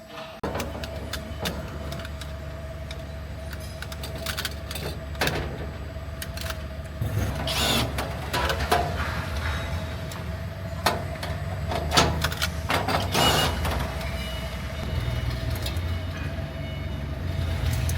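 Factory machinery running with a steady low hum and a constant mid-pitched tone, with irregular clanks and knocks and a few short hissing bursts, the strongest around 8 and 13 seconds in.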